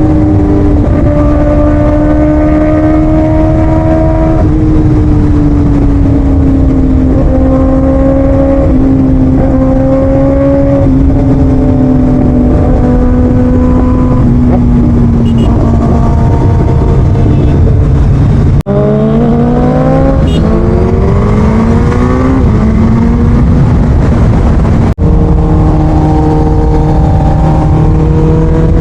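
Motorcycle engine running at a cruise under heavy wind rumble, its pitch sagging slowly. About two-thirds of the way in, the sound breaks off for an instant, then the engine revs up. A second short break comes near the end.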